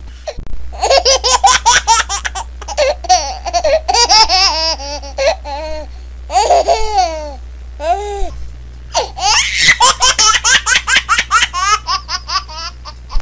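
A baby laughing in quick runs of giggles, broken by short pauses for breath.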